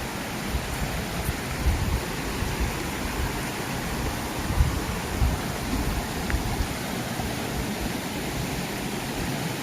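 Mountain valley stream running steadily after rain, with irregular low thumps now and then.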